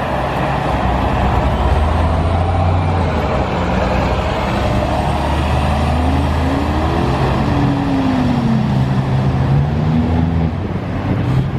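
A heavy road or rail vehicle running steadily with a low hum. About halfway through, a pitch rises and then falls, like the vehicle speeding up and changing gear.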